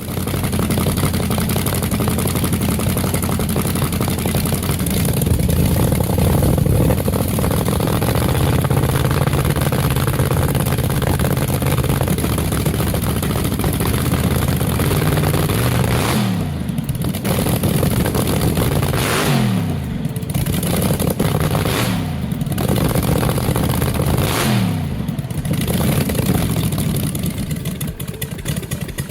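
Drag-racing V8 engine running loud and rough, then revved about four times in the second half, the pitch falling away after each rev.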